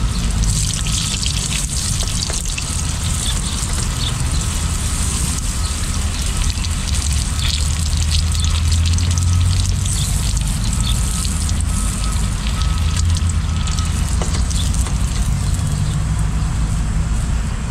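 Second batch of floured fish sizzling and crackling in hot frying oil, a steady hiss with fine pops. Underneath runs a steady low rumble.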